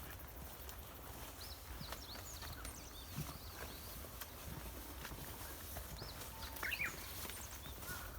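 Faint outdoor ambience with scattered short, high chirping calls and a few soft knocks over a low steady rumble.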